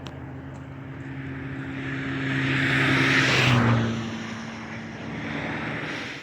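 An engine-driven vehicle passing close by. Its sound swells to a peak about three seconds in, then the engine pitch drops as it goes past.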